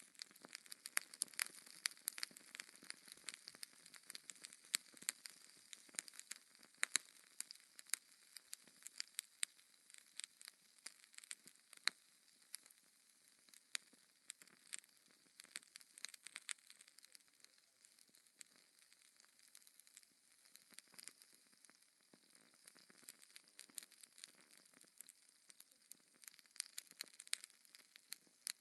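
Wood fire in a fireplace crackling, with frequent irregular sharp pops over a faint hiss.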